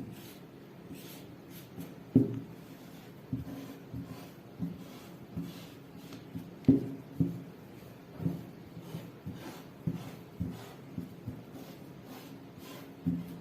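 Marking strokes drawn across cloth while tracing a blouse pattern: a series of short, irregular scratching strokes, roughly one every half second, with two louder ones about two and seven seconds in.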